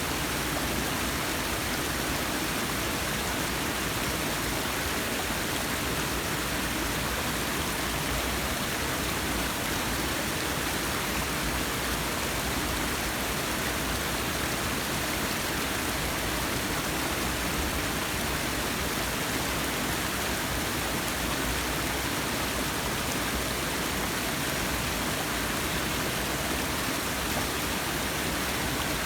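Forest waterfall: a steady, even rush of falling water.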